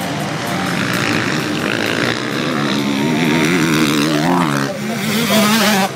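Motocross motorcycle engines racing, their pitch rising and falling as riders work the throttle. One engine revs up sharply about two-thirds of the way through, and the sound grows louder near the end.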